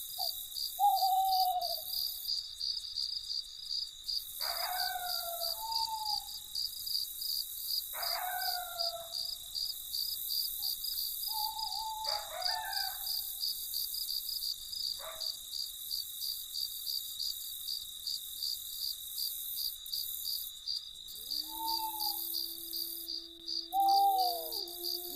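Crickets chirring steadily in a fast, even pulse. Over them an animal gives five short falling calls a few seconds apart. Near the end a long call rises and then holds steady on one pitch.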